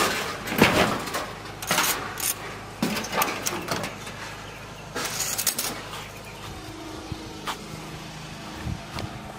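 Irregular scraping and rattling noises, loudest in the first second, with further bursts about two, three and five seconds in and a few sharp clicks later, over a faint steady low hum.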